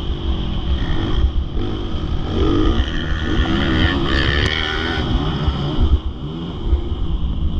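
Motocross bike engine revving up and down repeatedly as it rides the track, its pitch rising and falling, over a heavy low rumble.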